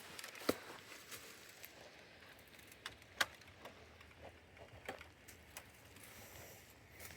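Scattered sharp clicks and taps at irregular intervals, the loudest about half a second and about three seconds in, over a faint background hiss.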